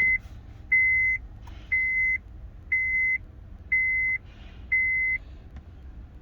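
Electronic beeper sounding a steady high beep about once a second, six times, each about half a second long, then stopping about five seconds in, right after the ignition is switched on during immobiliser key programming.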